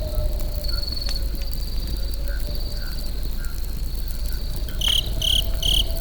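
Crickets trilling steadily over a crackling campfire with a low rumble, a faint wavering tone underneath, and three sharp chirps in quick succession near the end.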